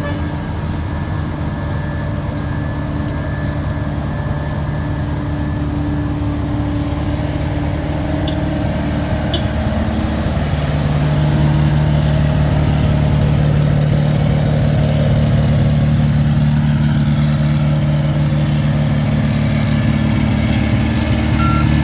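Diesel engine of heavy road-paving machinery running steadily, growing louder with a shift in pitch about ten seconds in. A reversing alarm starts beeping right at the end.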